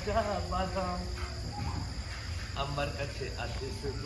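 Insects trilling in one steady high note, with faint voices in the background and a low rumble underneath.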